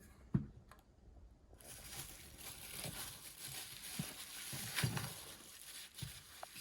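Bubble wrap rustling and crinkling as a model train car is unwrapped, starting about a second and a half in, with a sharp click at the start and a few soft knocks.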